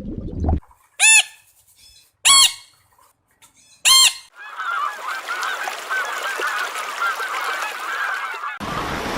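Waterfowl calling: three loud, separate calls about a second apart, then a flock chattering together with many short calls. It cuts off abruptly near the end.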